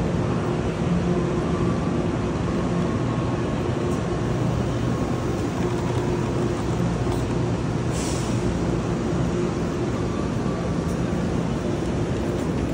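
Steady hum and whir of a high-speed electric train standing at the platform, its onboard equipment running, with a short hiss about eight seconds in.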